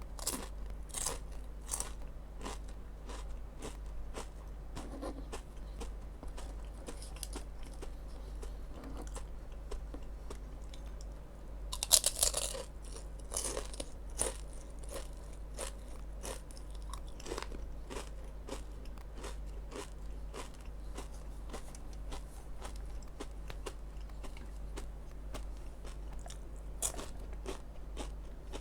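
Crunchy fried fish skin crisps being bitten and chewed: a steady run of crisp crunches, with a louder burst about twelve seconds in, over a steady low hum.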